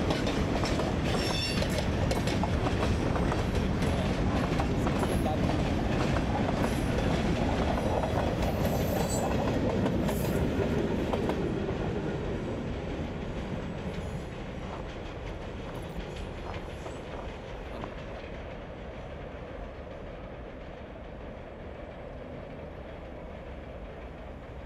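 Freight train cars rolling past close by, wheels clicking over the rail joints; about twelve seconds in the sound falls away to a fainter, steady running noise as the train moves off.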